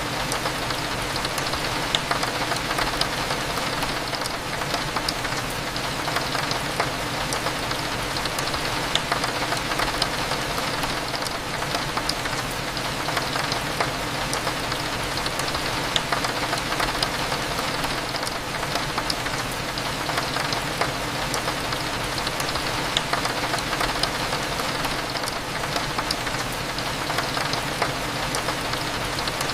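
Steady rain hitting a window, with many small sharp drop ticks scattered through it, over a low steady background hum.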